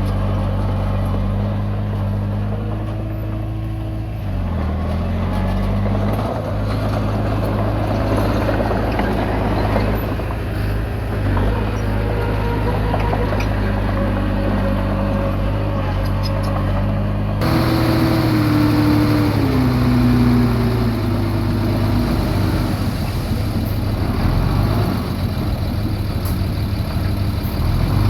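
Komatsu D20P bulldozer's diesel engine running under load, its pitch dipping and rising as the load changes. The sound changes abruptly about two-thirds of the way through.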